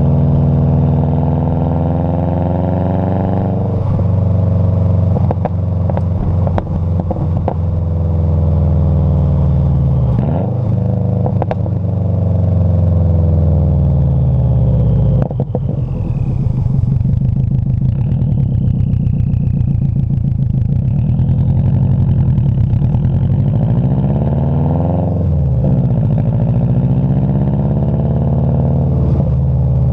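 Vehicle engine exhaust running under way, its pitch repeatedly falling and rising as the engine revs up and eases off, with a brief dip about halfway through.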